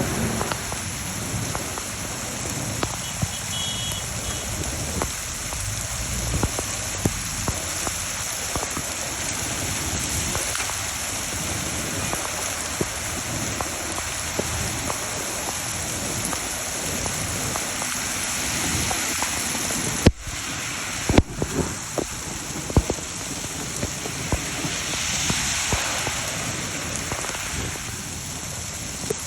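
Rain falling steadily, a continuous hiss with the fine patter of drops hitting surfaces. Two sharp knocks stand out about two-thirds of the way through.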